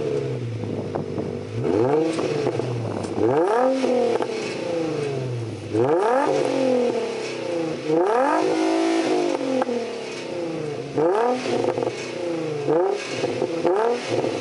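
Y50 Nissan Fuga engine free-revving through an aftermarket rear muffler: about seven quick blips, each rising sharply and falling back, with one held briefly at the rev limiter around the middle.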